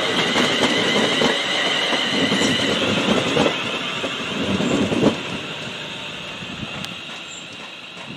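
A train running past on the rails with a few wheel knocks over rail joints and a steady high-pitched whine, fading as it moves away.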